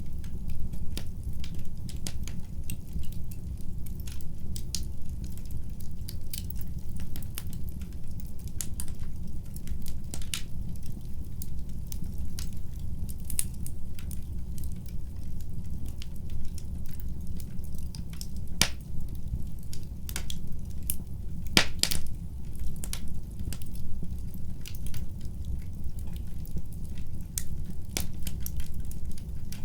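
Fireplace fire crackling: frequent irregular sharp pops and snaps over a steady low rumble, with a few louder pops a little past the middle.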